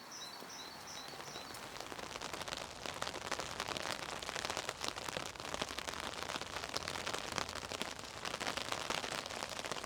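Rain falling on a surface: a dense patter of many small drop impacts that grows heavier about two seconds in. A bird chirps a few times over the first second or so.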